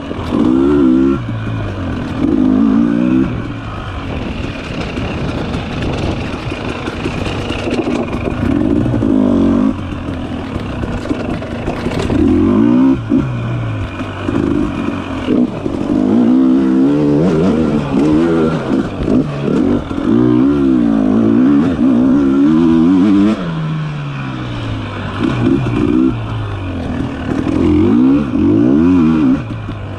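Dirt bike engine revving up and down over and over as the throttle is opened and closed, climbing in pitch and dropping back every second or two, with short lulls between bursts of throttle.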